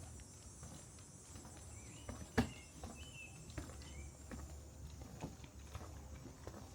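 Footsteps on a wooden boardwalk: soft knocks about every half second, with one sharper knock a little over two seconds in. A bird gives a few short chirps in the middle, over a steady high insect drone.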